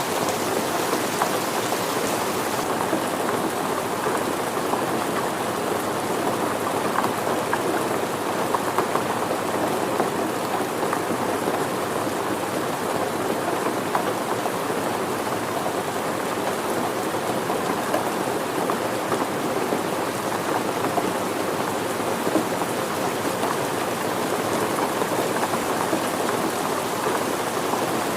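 Steady rain falling: an even hiss with a dense patter of individual drops. The high part of the hiss eases slightly about three seconds in.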